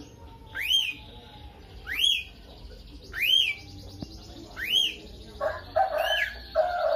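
Lovebird calling: a sharp squeak that rises and falls, repeated evenly five times, about once every second and a half. In the last second and a half a lower, buzzy chatter joins in.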